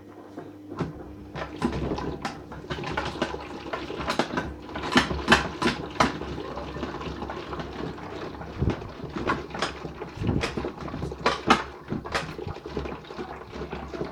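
Toy washing machine on a rinse, still holding soapy water: water sloshing with many sharp clicks and knocks, over a low steady hum.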